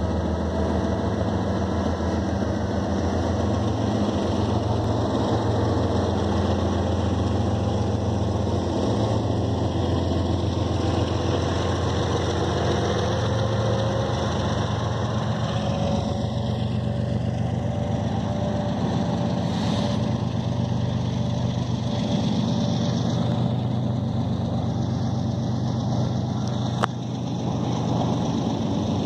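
BNSF diesel freight locomotives pulling away under power, their engines droning steadily, with the rolling rumble and clatter of covered hopper cars passing on the rails. One sharp click near the end.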